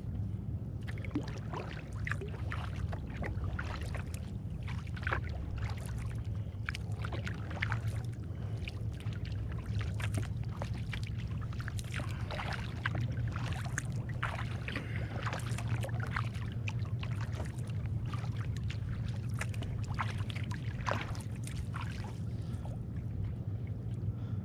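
Kayak paddle strokes: the blades dipping and splashing, with water dripping off them, over a steady low hum.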